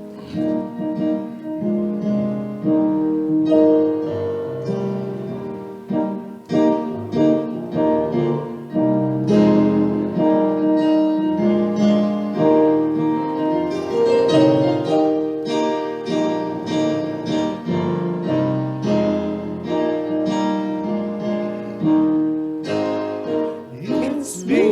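Piano or keyboard playing an introduction to a gospel hymn, chords and melody notes struck in a steady run of attacks.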